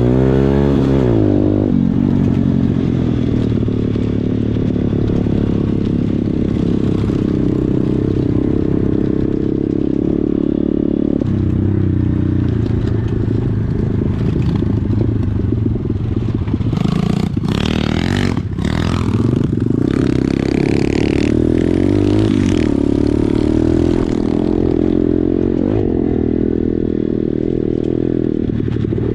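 Pit bike engine running under way, its pitch rising and falling with the throttle. A little past halfway there are a few seconds of clattering and scraping over the engine.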